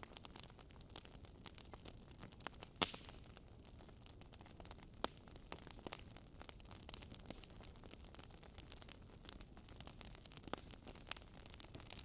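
Wood fire crackling in a fireplace: irregular sharp pops and snaps over a low steady hiss. The strongest pops come about three seconds in and again near the end.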